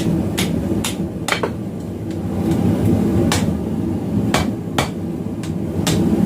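Hammer striking hot round steel bar on an anvil while forging it into a knot: about nine sharp, irregularly spaced blows, some in quick pairs, over a steady low roar.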